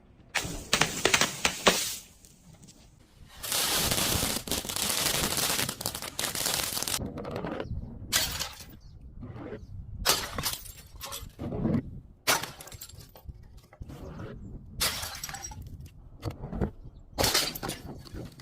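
Glass bottle breaking and being crushed: sharp cracks and crunches of shattering glass, with a few seconds of continuous grinding crunch about three seconds in, then a string of separate crunches and cracks.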